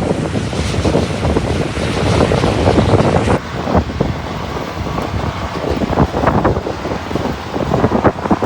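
Storm wind buffeting the microphone in a rainstorm: a loud, gusting rush that swells and dips throughout.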